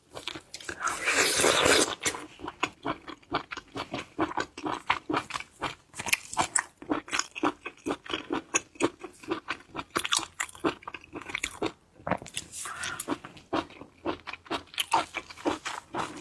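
Close-miked mouth biting and chewing crunchy seafood: a dense run of quick, crisp crunches and wet chewing clicks. There is a louder, longer crunch about a second in and another about three quarters of the way through.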